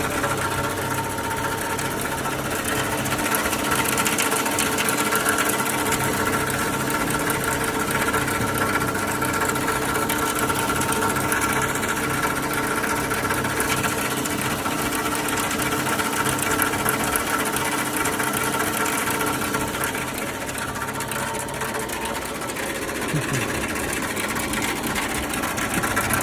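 Car engine running with a fast, steady knocking clatter, the noise that was blamed on rod knock from running low on oil after an oil change.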